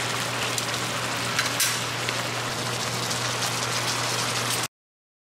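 Marinated beef bulgogi sizzling and bubbling in its sauce in a cast iron skillet, an even steady frying hiss over a low hum. The sound cuts off abruptly near the end.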